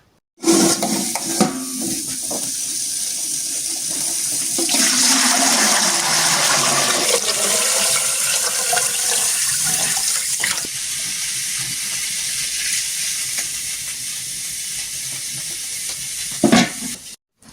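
Water rushing and pouring steadily, starting abruptly and cutting off sharply near the end, loudest in the middle.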